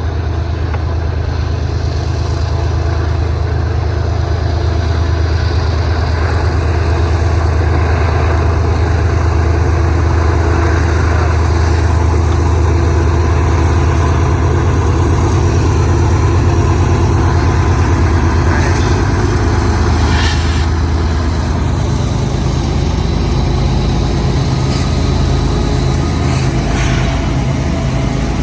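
Union Pacific diesel freight locomotives running with a steady low drone as a long freight train rolls past, with a few sharp metallic clanks about twenty seconds in and twice near the end.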